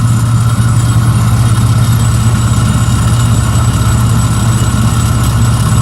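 Kubota four-cylinder diesel kicker engine of a Tymco 435 street sweeper running steadily while driving the vacuum, a loud, even low drone.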